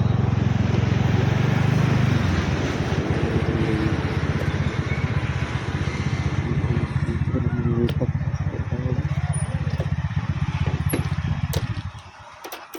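Motor scooter engine running at low speed with a steady pulsing drone while the scooter is pulled over to park; the engine sound stops about a second before the end, followed by a few light clicks.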